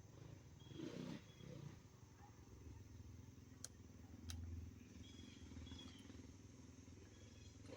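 Faint, distant dirt bike engines running, barely above near silence, with a few short high chirps and two sharp clicks about halfway through.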